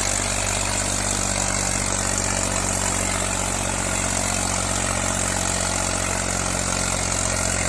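Eicher tractor's diesel engine running steadily at an unchanging speed.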